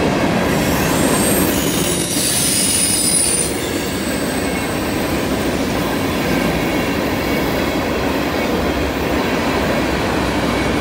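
Freight train of tank cars rolling past on a curve, with a steady rumble of wheels on rail. High wheel squeal rings out from about one to three and a half seconds in.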